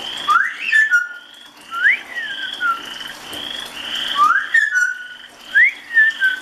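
A parrot gives four wolf whistles, each a quick rising whistle that drops back down in a step. Behind them, frogs call in a steady chorus of short, evenly repeated calls.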